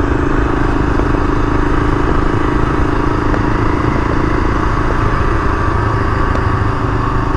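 Honda XL500 single-cylinder four-stroke engine running at a steady speed while the motorcycle is ridden, with an even hum and road and wind rumble.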